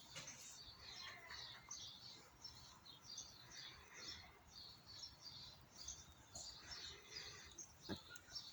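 Faint birdsong: small birds chirping and twittering in quick, high, repeated notes throughout. A single sharp click sounds near the end.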